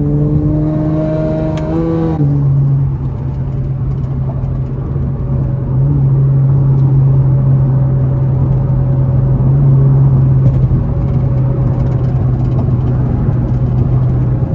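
Twin-turbo V6 of a tuned Infiniti Q50 3.0t, heard from inside the car, climbing in revs for about two seconds, then dropping back and settling into a steady highway cruising drone.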